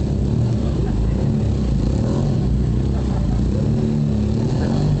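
BMW F800R stunt motorcycle's parallel-twin engine running and revving, its pitch shifting up and down.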